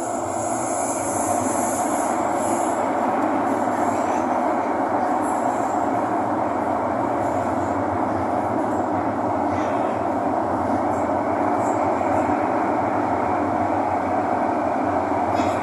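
Thomson-East Coast Line metro train running, heard from inside the car: a steady rumble and rush of wheels on rail. A high wheel squeal sounds over it for the first couple of seconds.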